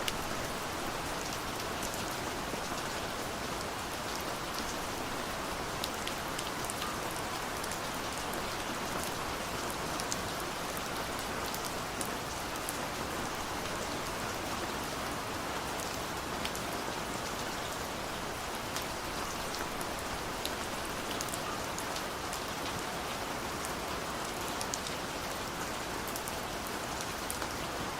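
Steady rain falling, an even hiss with scattered individual drops ticking sharply throughout.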